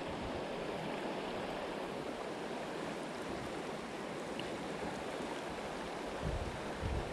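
Creek water rushing steadily over rocks, with a couple of brief low bumps near the end.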